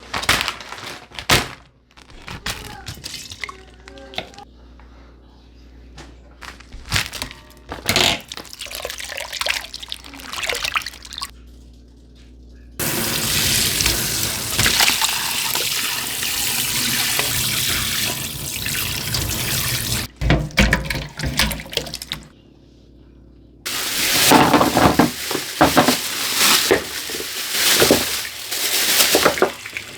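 Food-preparation sounds in short segments that stop and start abruptly: water running steadily for about seven seconds in the middle, with shorter splashing and clattering sounds before and after.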